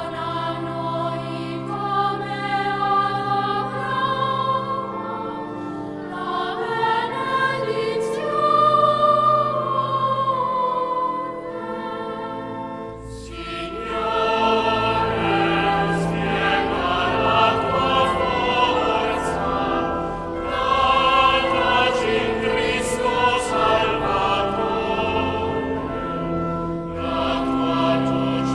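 Background choral music: voices singing slow, sustained lines, growing fuller and louder about halfway through.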